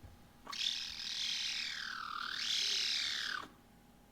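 A cat's long, high call that sounds like a laser beam, sliding down in pitch and back up again over about three seconds.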